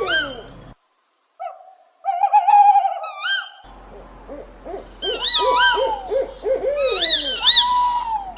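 Owl calling in a quick series of rising-and-falling hoots, several a second. The calls cut out to silence for about a second near the start, then resume, with higher arched notes layered over them later on.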